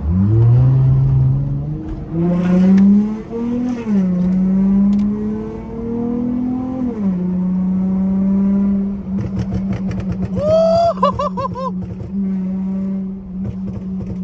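Dodge Charger SXT's V6 with a pop-and-burble tune accelerating, its pitch climbing and dropping twice as it upshifts, then holding steady. Starting about nine seconds in, the exhaust crackles in a rapid run for a few seconds, with a short wavering squeal partway through.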